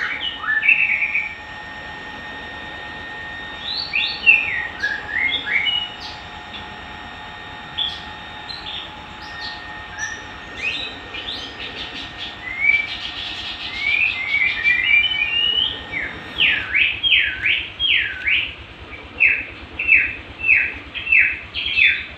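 A songbird singing a varied string of whistled notes that sweep up and down. About two-thirds of the way through it breaks into a run of quick, repeated down-slurred notes. A faint steady hum sits underneath.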